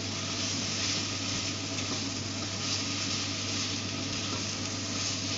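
Food sizzling in a pan on the stove as it is stirred with a spatula, a steady frying hiss with a constant low hum underneath.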